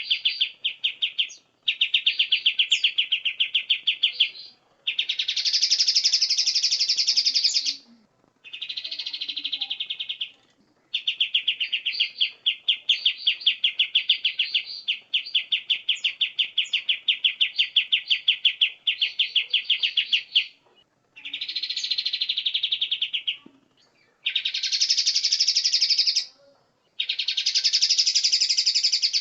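Recorded songbird calls played back in turn: bouts of rapid, evenly repeated chattering notes lasting a few seconds each, alternating with higher, denser phrases, with short pauses between bouts.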